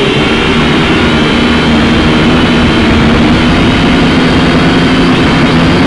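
Quadcopter motors and propellers running at speed, a steady whine of several close pitches that waver slightly, over low wind rumble on the microphone.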